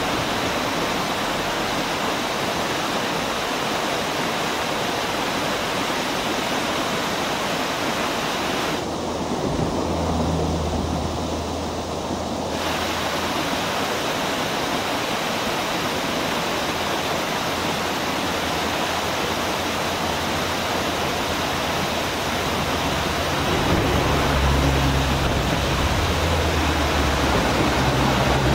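Waterfall pouring with a steady, even rush. A low hum, like a passing vehicle's engine, comes in about nine seconds in and again near the end.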